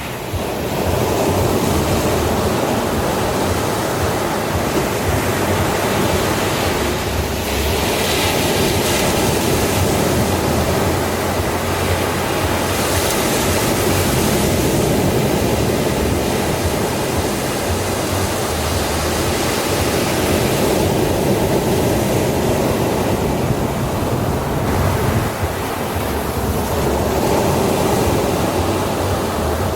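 Ocean surf washing onto a sandy shore: a steady rushing wash that swells into a brighter hiss as waves break, three times over.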